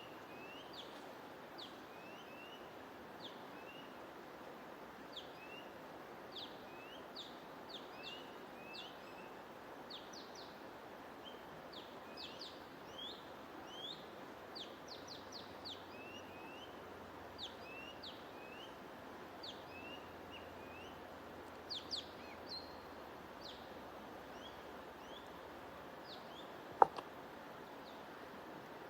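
Small songbirds chirping: short, quick upward-sweeping chirps, several in a row, over a steady hiss of white noise or flowing water. A single sharp click near the end is the loudest sound.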